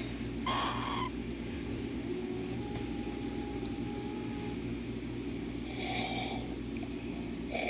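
A baby cockatiel giving short, harsh calls, one about half a second in, one about six seconds in and one near the end, over a steady low hum.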